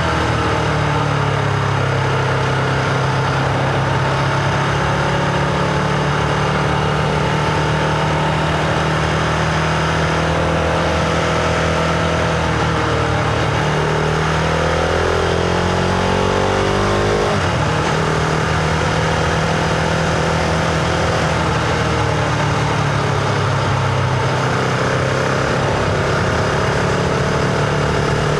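Husqvarna Vitpilen 701's single-cylinder engine running under way, its pitch rising and falling with the throttle, with a sudden change in engine note about two-thirds of the way through.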